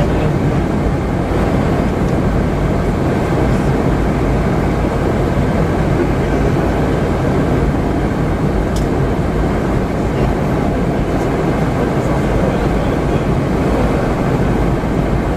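Steady cabin noise inside a Boeing 717-200 in flight: an even rush of airflow and engine noise from its tail-mounted Rolls-Royce BR715 turbofans, with a constant low drone underneath.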